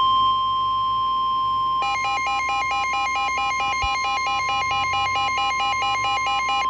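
NOAA Weather Radio 1050 Hz warning alarm tone: one loud, steady, high beep that comes before a severe thunderstorm warning. About two seconds in, a second electronic alert of fast, warbling beeps at about four to five a second joins it.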